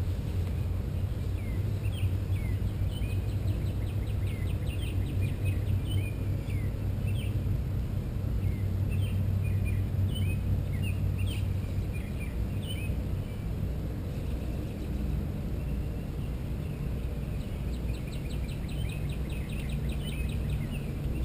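Songbirds chirping with many short, quick calls, and a rapid high trill near the end, over a steady low rumble.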